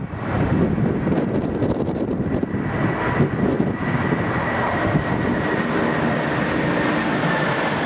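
Jet airliner engines running as a plane passes: a dense, steady rush with a high whine that sinks slightly towards the end.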